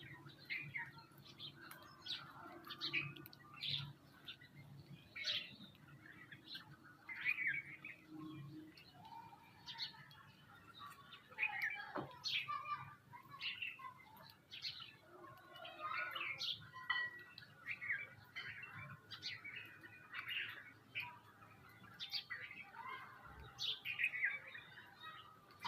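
Several small birds chirping and calling over one another in short, irregular notes, with a faint low hum under the first third.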